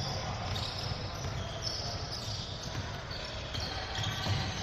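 Basketball game play on an indoor court: the ball bouncing with low thuds, sneakers giving short high squeaks, over a steady background of gym crowd noise.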